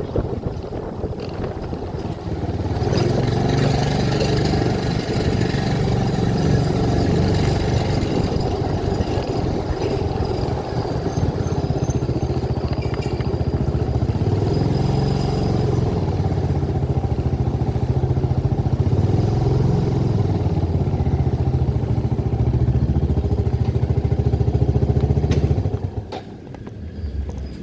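A motor vehicle's engine running steadily at an even pitch, then dropping away suddenly near the end.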